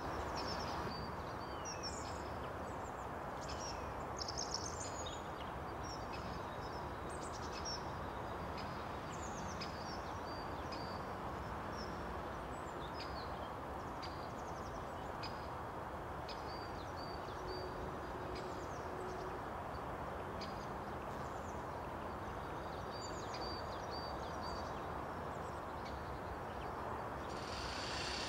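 Small birds chirping in short, scattered high calls, over a steady low background rumble. A louder high hiss comes in near the end.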